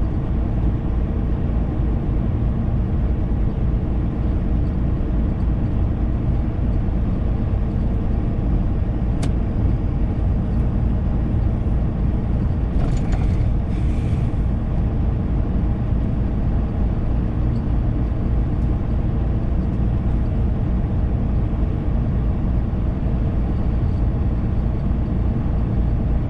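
Steady drone of a semi-truck's diesel engine and road noise heard from inside the cab while driving, with two short hisses about 13 seconds in.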